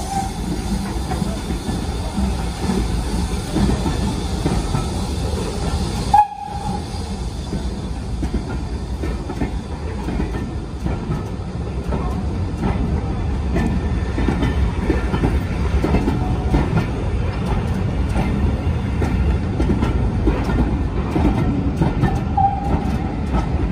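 Steam-hauled train of BR Mark 1 passenger coaches rolling slowly past along the platform, a steady rumble of wheels on rail with some clicking over joints. Short high squeals come about six seconds in and near the end, and the sound drops out for a moment just after six seconds.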